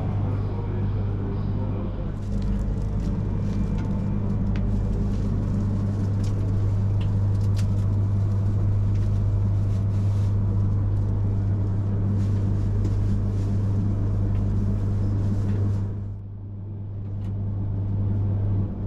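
E3 series Shinkansen train standing at the platform: a steady low electrical hum with scattered light clicks. The sound dips about sixteen seconds in and cuts off abruptly near the end.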